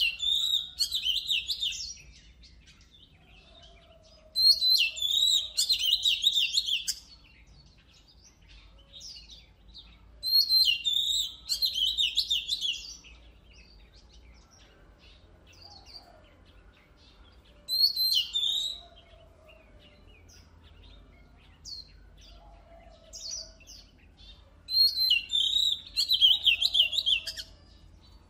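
Oriental magpie-robin singing in loud bouts of rapid, high whistles and chattering notes. There are five phrases, each two to three seconds long, with pauses between them.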